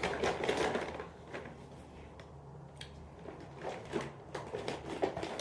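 Snack packets being rummaged through and handled: scattered rustles and light knocks, with a quieter pause around two seconds in.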